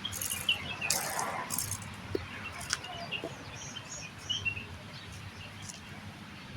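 Faint small-bird chirps, short scattered notes, with a few brief rustling noises in the first couple of seconds.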